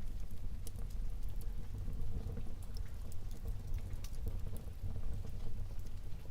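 Wood fire burning in a fireplace: scattered crackles and small pops over a low, steady rumble of the flames.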